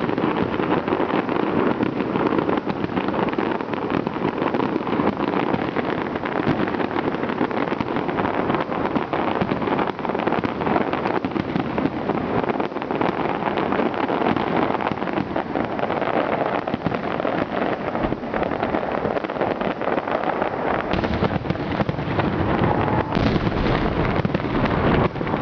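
Fireworks display in a dense, continuous barrage: overlapping bangs and crackling with no break, getting heavier and deeper about four-fifths of the way through.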